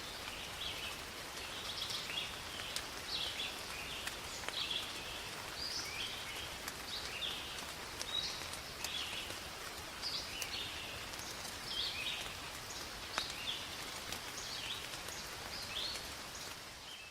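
Steady rain falling through a forest, with scattered drop clicks, while birds call over it in short, high chirping notes repeated every second or so. The sound fades out near the end.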